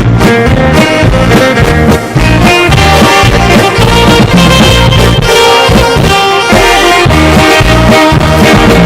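Live band music: a saxophone melody over electronic keyboard, electric guitar and drum kit, with a steady beat.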